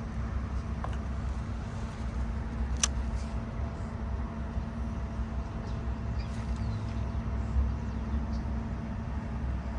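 A motor running steadily with a low rumble and hum, with a sharp click a little under three seconds in.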